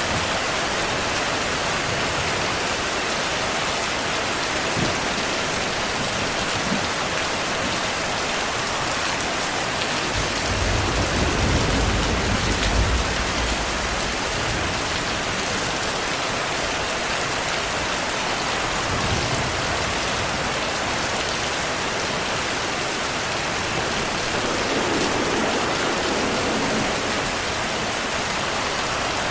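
Steady heavy rainfall, with a low rumble of distant thunder swelling about ten seconds in and fading after about four seconds.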